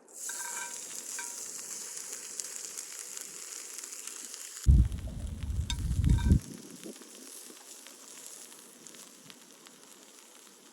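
Food sizzling on a grill over a wood fire, a dense hiss that is strongest for the first four seconds or so and then fades. About five seconds in, a loud low rumble lasts for a second and a half.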